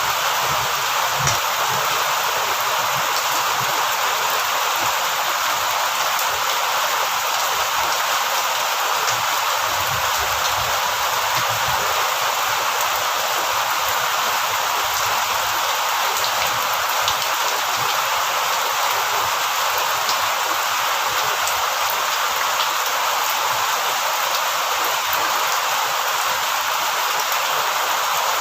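Steady heavy rain: a dense, even hiss with scattered individual drop ticks.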